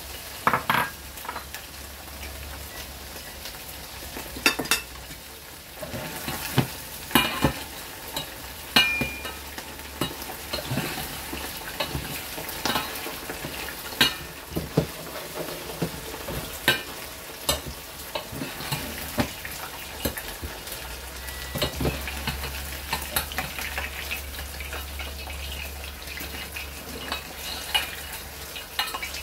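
Food sizzling in a frying pan while a metal slotted spoon stirs fried pork rib pieces in a stainless steel pot. Repeated sharp clinks and scrapes of metal on metal sound over the steady hiss of the frying.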